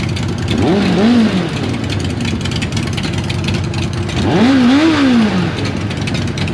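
Suzuki Katana motorcycle engine revved twice, each rev rising and falling in pitch, the first about a second in and the second, slightly louder, about four seconds in. Under it, the steady idle of several other motorcycles running at once.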